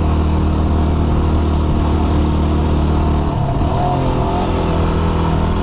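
Yamaha WR250R's single-cylinder four-stroke engine running steadily under way. A little over three seconds in, the engine note briefly dips and breaks up, then settles again.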